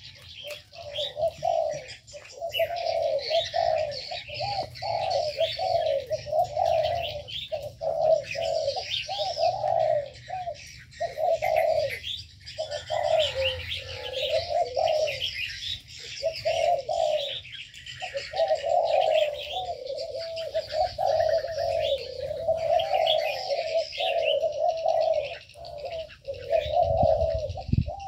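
Several doves cooing almost without a break, overlapped by small birds chirping and twittering at a higher pitch. A short low rumble comes near the end.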